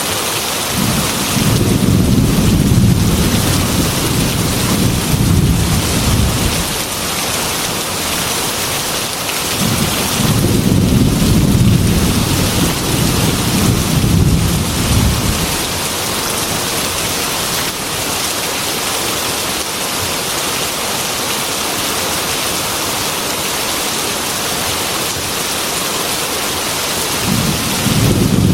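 Heavy rain beating steadily on a glass window, with thunder: two long low rumbles of several seconds each in the first half, and another starting near the end.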